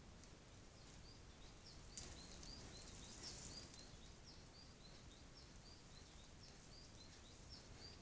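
Faint small bird calling: a run of short high chirps, about three or four a second, over a steady background hiss.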